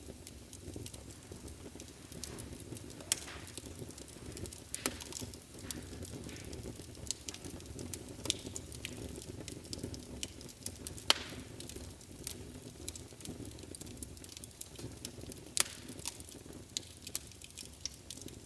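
Wood fire burning in a fireplace: a steady low rush of flames with frequent irregular crackles and sharp pops, one of the loudest pops a little past the middle.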